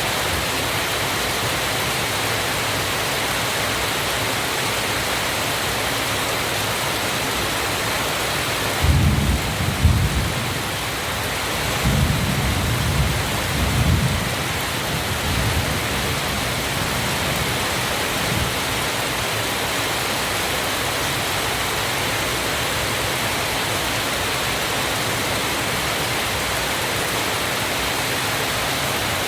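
Waterfall rushing in a steady, even roar of falling water. Several low rumbles come through about nine seconds in and again around twelve to fourteen seconds.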